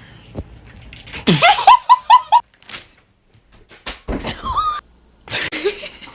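A person laughing in quick high-pitched bursts, followed by a short pitched cry and a noisy clatter near the end.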